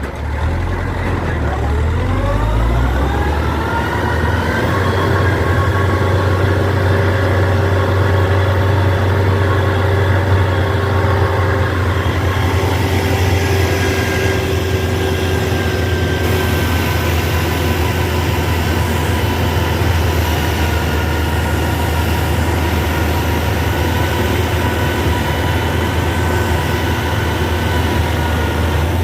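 Kubota DC-93 Extra combine harvester's diesel engine revving up over the first few seconds, then running steadily at high revs, with a steady whine over its low drone.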